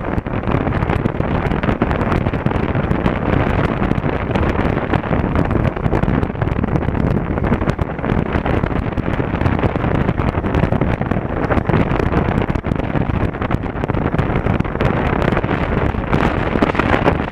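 Steady, loud wind rushing over the camera's microphone on a moving motorcycle, with the bike's engine and road noise mixed in underneath.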